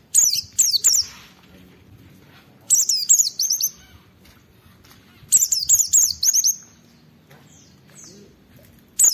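White-eye (pleci) singing in short, vigorous bursts of rapid, high, falling notes, one burst roughly every two and a half seconds: three bursts, with a fourth starting at the very end.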